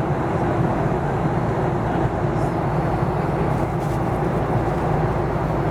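Steady in-flight cabin noise of a Boeing 737-800 in descent: a constant rush of airflow over the fuselage with the low hum of the engines, unchanging throughout.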